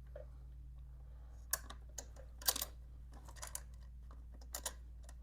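Scattered light metallic clicks and taps as a bolt held in a socket is lined up and started into a bracket.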